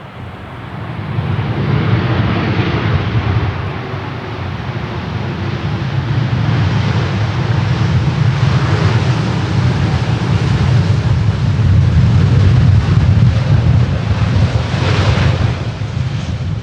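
Jet airliner passing close by, its engines giving a loud, steady rumble and rush that swells about a second in and holds.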